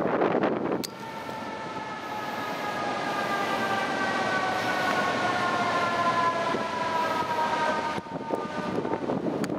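Distant FDNY fire apparatus siren: several tones held together, slowly falling in pitch over several seconds. It sounds over heavy gusting wind noise on the microphone, which swells loudest at the start and again near the end.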